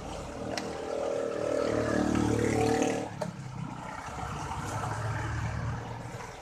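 A motor vehicle engine passing close by, its pitch falling over the first few seconds, then a lower steady engine hum that fades near the end.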